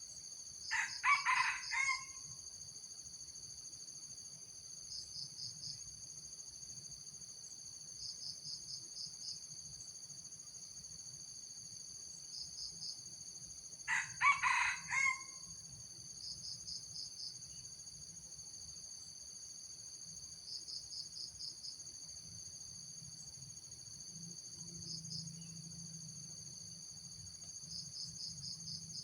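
Junglefowl rooster crowing twice, about thirteen seconds apart, each a short crow of about a second and a half. Under it a steady high insect drone, with small groups of rapid chirps every few seconds.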